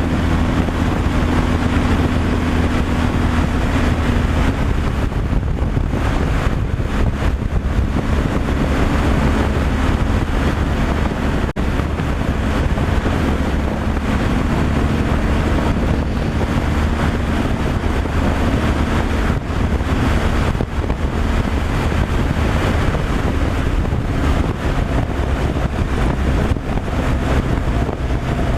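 Semi-truck cruising on the road: a steady engine drone and road noise, with wind rushing across the microphone.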